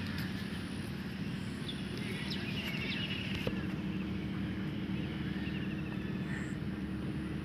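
Birds calling in short rapid trills a few times over a steady low hum.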